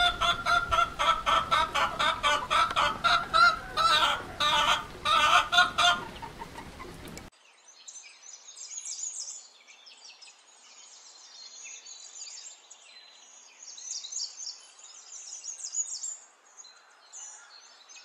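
Hens clucking in a loud, rapid run of short calls for about seven seconds, then an abrupt change to fainter bird chirping and twittering.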